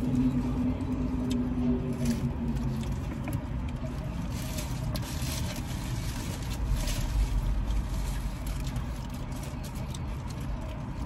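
Chewing and the rustle of burrito wrapper paper with faint clicks, over a steady low rumble inside a car. A low held hum fades out about three seconds in.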